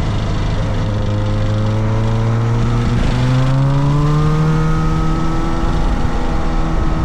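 Motorcycle engine under way, its pitch climbing gradually as it accelerates over the first few seconds, stepping up about three seconds in, then holding steady, with wind and road noise underneath.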